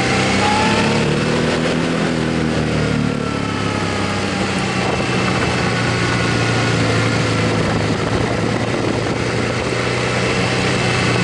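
Motorcycle engine running under way, its note shifting in pitch over the first few seconds and then holding steady, over a steady rush of wind noise.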